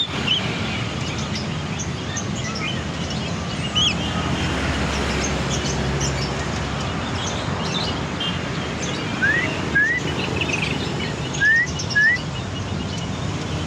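A caged bird calling in short chirps and whistled notes. Two pairs of brief rising whistles, the loudest sounds, come about two-thirds and five-sixths of the way in, over a steady background hum.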